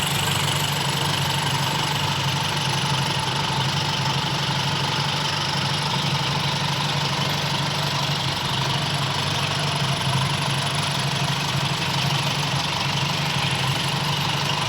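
Toyota Kijang's petrol engine idling steadily and smoothly, with its distributor timing and contact points freshly adjusted.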